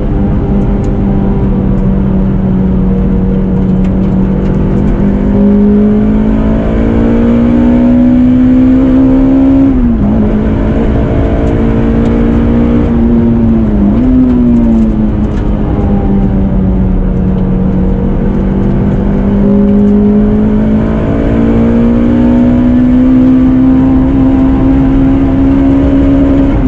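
Toyota Celica ZZT231's 2ZZ-GE 1.8-litre four-cylinder engine running under load. Its pitch climbs slowly, then drops sharply three times, as at gear changes.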